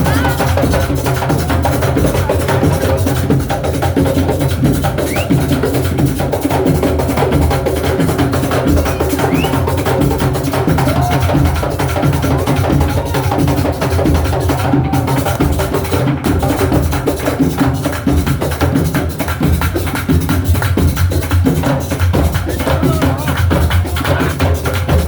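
Group of drums playing together in a dense, continuous rhythm of repeated strikes, with a heavy low bass-drum pulse under sharper, higher hits.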